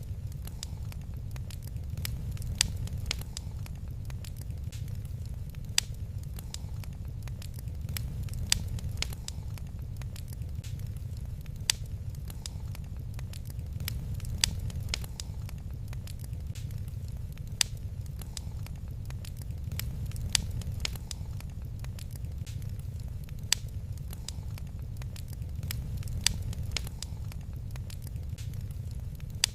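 Wood fire crackling in a fireplace: many small crackles and a sharp pop about every three seconds over a low, steady rumble.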